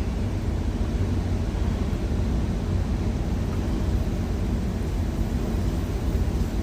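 Steady low rumble of an idling truck engine, even and unbroken.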